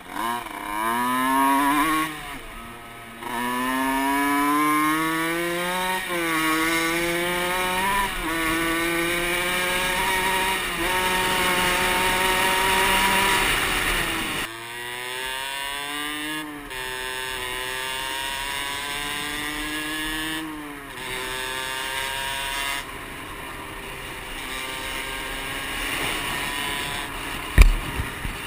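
Small motorcycle engine accelerating through the gears, its pitch climbing and dropping back at each shift, over and over. A single sharp thump near the end.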